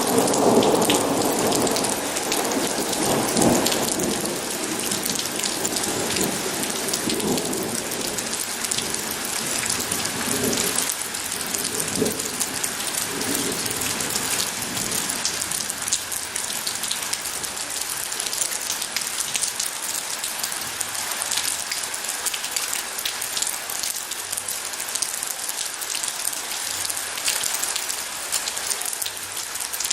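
Steady rain, with many close drops pattering, and a long roll of thunder that rumbles strongest at the start and fades away by about halfway through.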